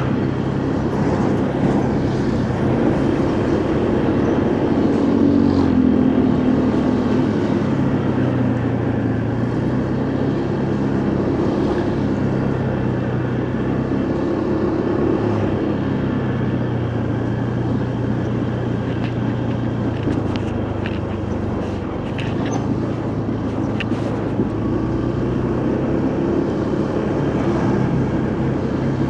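Motorcycle engine running while riding, its pitch rising and easing with the throttle, over wind and road noise, with a few short ticks about two-thirds of the way through.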